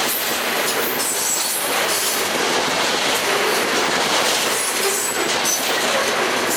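Freight train cars rolling steadily past on the rails, with brief high wheel squeals now and then.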